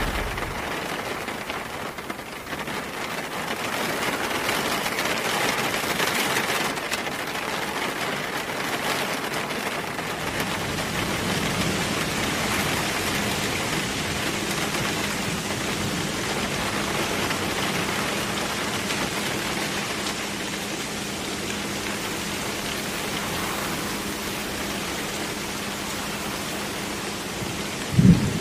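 Steady rain falling, an even hiss of drops. Right at the end a low rumble of thunder breaks in.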